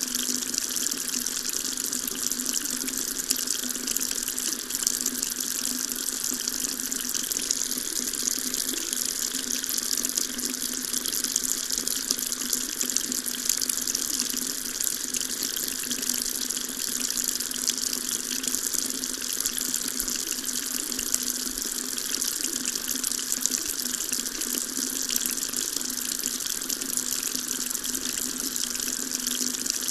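Water tap running steadily, a continuous stream of water splashing into a sink.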